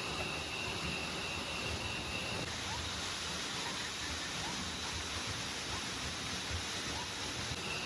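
Steady heavy rain falling, an even hiss throughout, with a thin high tone that stops about two and a half seconds in and returns near the end.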